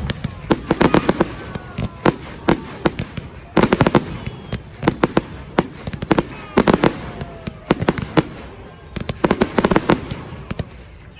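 Fireworks display going off in repeated volleys of sharp bangs and rapid crackling, a new cluster every second or two.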